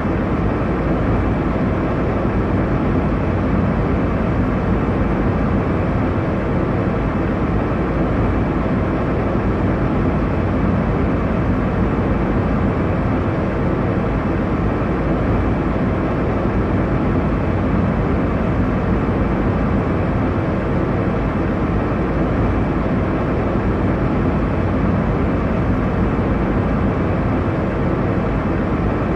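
Airliner cabin noise in flight: a steady, even rush of engine and airflow noise, strongest in the low range, with no changes.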